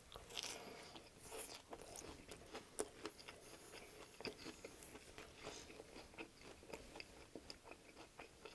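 Close-miked chewing of a bite of soft flour tortilla with shredded lettuce: faint, scattered mouth clicks and light crunches.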